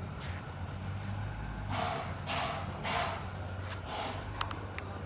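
Suzuki TL1000S's 996 cc 90-degree V-twin idling steadily, with four short louder noisy bursts around the middle and a sharp click near the end.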